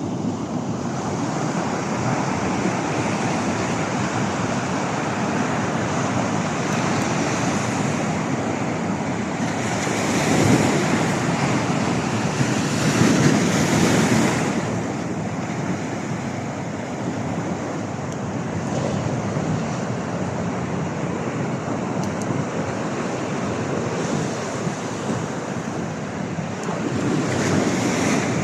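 Sea surf: waves washing onto the shore in a continuous rush, swelling louder for a few seconds about a third of the way through and again near the end.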